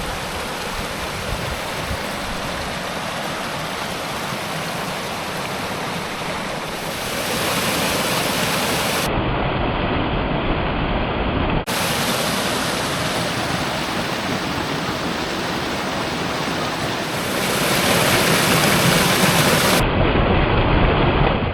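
Small waterfall on a stream: water rushing and splashing steadily. It gets louder about seven seconds in and again near the end, with a brief dip about halfway through.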